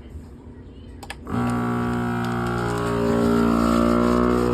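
Vacuum sealer's pump starting about a second in and running with a loud, steady hum, its pitch drifting slightly as it draws the air out of a bag of herring bait.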